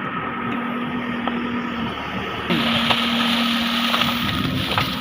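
Diesel engine of heavy farm or earth-moving machinery running steadily at a constant pitch. About halfway through, the sound turns abruptly brighter and slightly louder, and the pitch dips briefly.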